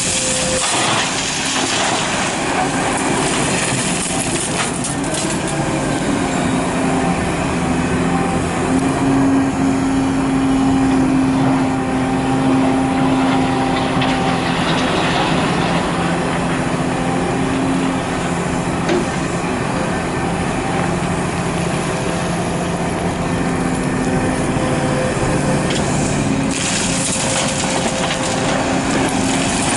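Large hydraulic excavator's diesel engine working under load, its pitch rising and easing as the machine digs and swings.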